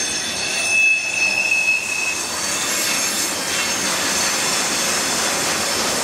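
Union Pacific freight train's tank and hopper cars rolling past with a steady rushing noise. A high-pitched steel wheel squeal rises from about half a second in and fades about two seconds in.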